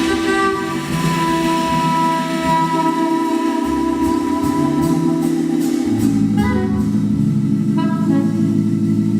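Jazz ensemble playing live: long held notes over a walking bass line, with more instruments coming in about six seconds in.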